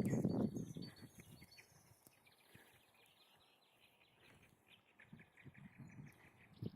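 Small songbirds singing, with rapid trills and chirps. Loud low thumps and rustling close to the microphone at the start and again near the end.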